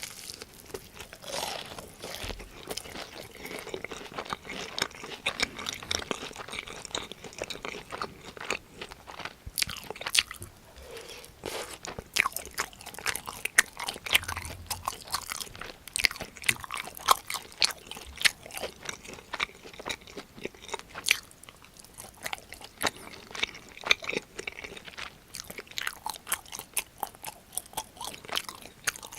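Close-miked eating: crunchy bites and steady chewing of a crisp fried cheese pork cutlet, many sharp crackles coming thick and irregular.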